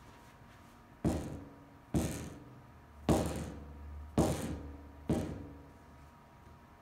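Titleist T-MB 718 iron head knocked five times, about once a second, each knock ringing out briefly. This is the weird rattling noise of the iron, as if something were loose inside the head.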